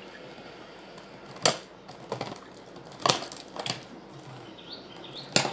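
A few sharp clicks and knocks a second or two apart, the loudest about a second and a half in and near the end.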